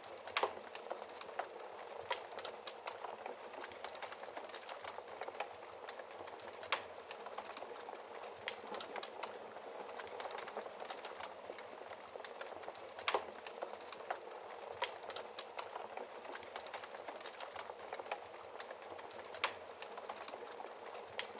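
Wood fire burning in a fireplace: a steady hiss with a constant patter of small crackles and a few louder, sharper pops spread through.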